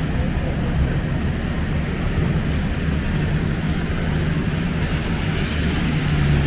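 Steady low rumble of city street traffic, with a low engine hum growing stronger near the end.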